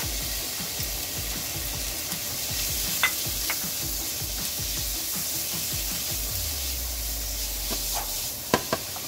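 Meat and vegetables sizzling in sesame oil in a frying pan, a steady hiss, with a sharp knock of the stirring utensil about three seconds in and two more near the end.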